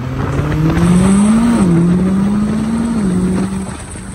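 Car engine accelerating through the gears: its pitch climbs, falls back at an upshift about one and a half seconds in, climbs again and dips at a second shift near three seconds, then fades out near the end.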